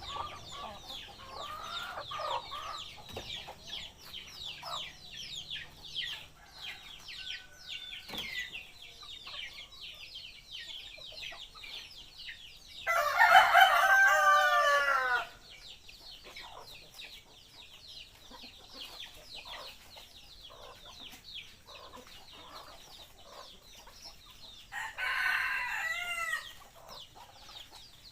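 Junglefowl rooster crowing twice: a loud crow about halfway through and a second, fainter crow near the end, over rapid high chirping.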